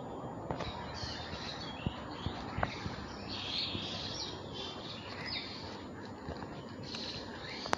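Small birds chirping and calling in quick, repeated bursts, with a few light clicks and knocks.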